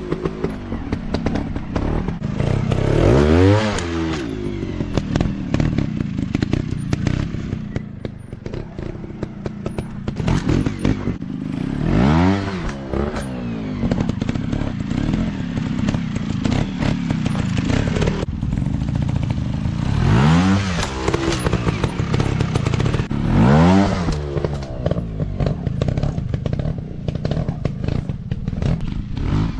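Dirt bike engine running, with several sharp blips of the throttle that rise and fall quickly, and clattering knocks from the bike over rough ground.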